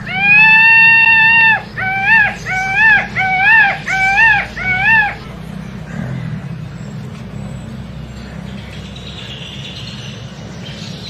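Peacock calling loudly: one long wailing call, then five short calls in quick succession, about two a second, each rising and then dropping off. After that only a low steady background hum remains.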